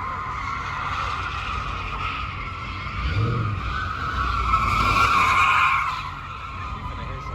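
A car's tyres screeching as it spins or drifts, over the low rumble of its engine. The screech swells to its loudest about five seconds in, then eases off about a second later.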